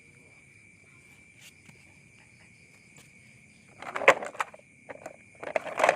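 Insects trilling steadily in the background, broken about four seconds in and again near the end by bursts of clattering and rattling from the plastic toy truck being picked up and handled.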